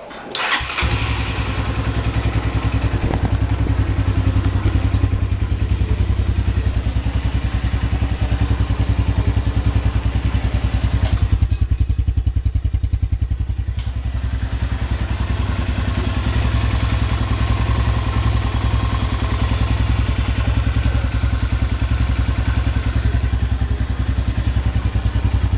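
Honda Phantom 200's single-cylinder four-stroke engine through its stock exhaust, starting about half a second in and then idling with a steady, even pulse.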